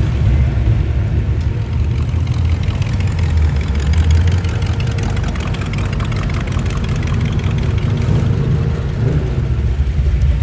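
Car engine idling close by, a steady low rumble.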